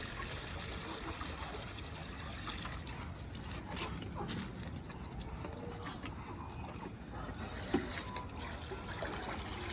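Water running and trickling as it is poured into the chickens' drinker.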